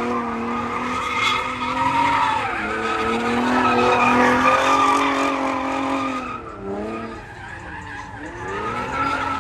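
A car spinning its tyres with the engine held at high revs and the tyres squealing. The revs dip and the sound eases about two-thirds of the way through, then climb again near the end.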